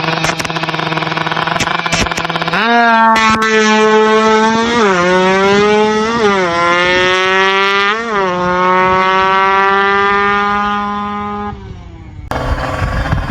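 Drag-tuned motorcycle engine run up on the stand. It runs steadily, then jumps to a higher held pitch a few seconds in, with three short throttle blips, and falls away near the end.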